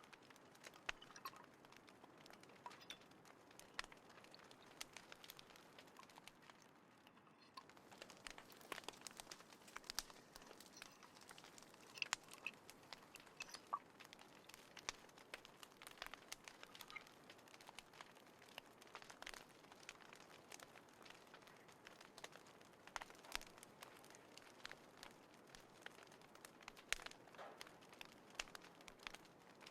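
Wood fire crackling in a small folding fire pit: irregular sharp snaps and ticks over a faint hiss, thinning out for a moment about seven seconds in.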